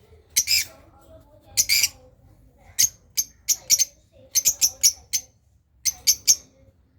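Lovebirds chirping: a run of short, sharp, high-pitched chirps, with two longer, harsher squawks near the start and quick clusters of chirps later on.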